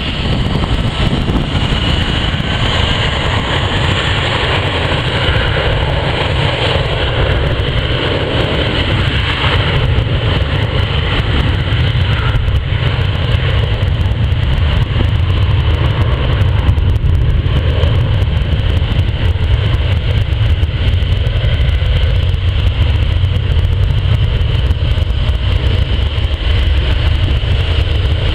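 Jet airliner engines running steadily, a continuous low rumble with a steady high whine over it, growing slightly louder about halfway through.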